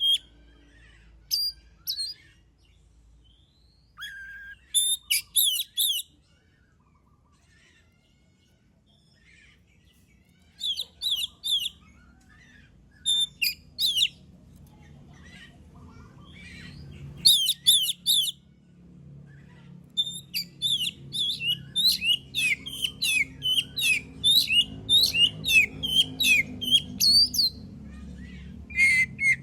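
Oriental magpie-robin (kacer) singing: short phrases of rapid, sharp, whistled notes separated by pauses, then a long unbroken run of song about two-thirds of the way through, with a faint low hum underneath.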